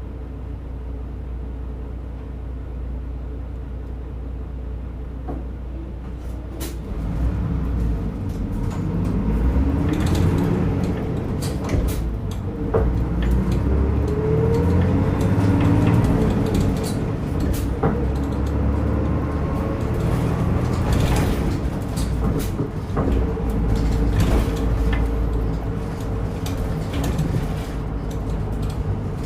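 Diesel route bus engine idling steadily for about six seconds, then pulling away: the engine note rises as it accelerates through the gears, with clicks and rattles from the bus body.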